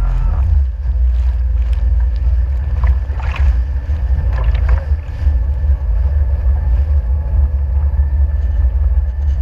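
Jet ski ride: wind buffeting the microphone in a heavy, uneven low rumble over the running watercraft.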